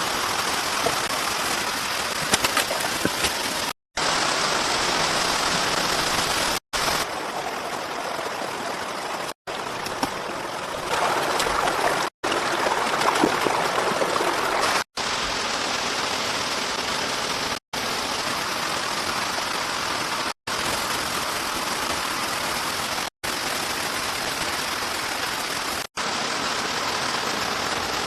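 Steady rush of heavy rain, broken by brief drops to dead silence every two to three seconds.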